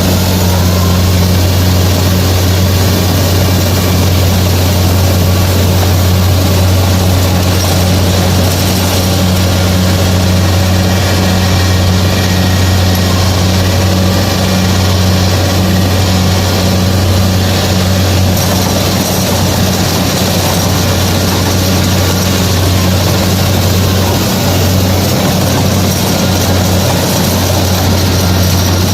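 Kubota DC-70 combine harvester running steadily while harvesting rice, its diesel engine holding one constant low drone over the clatter of the cutting and threshing machinery.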